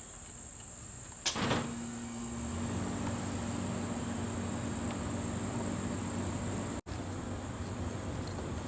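Crickets trilling steadily in a high, unbroken tone. About a second in there is a single knock, and from about two and a half seconds a steady rasping rub of wood on wood joins in.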